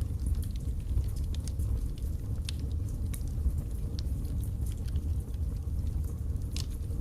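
Wood fire burning in a fireplace, crackling with scattered sharp pops and snaps over a steady low rumble of the flames.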